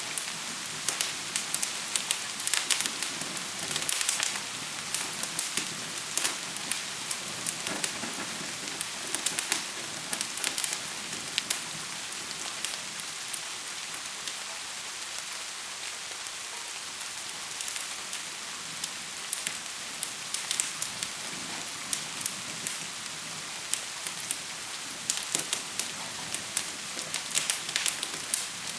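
Steady hiss of gentle rain mixed with the sharp pops and crackles of a fire. The crackles come in clusters through the first half and again near the end, and are sparser in between.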